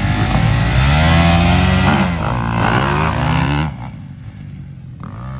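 Dirt bike engine revving hard close by, its pitch climbing and falling repeatedly. After about four seconds it drops away to a quieter engine drone.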